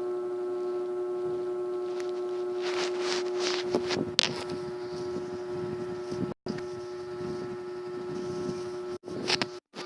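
A steady droning tone with a stack of overtones, played back as an "annoying sound", with crackly noise over it around three to four seconds in. It drops out for an instant past the middle and breaks up into choppy stutters at the end.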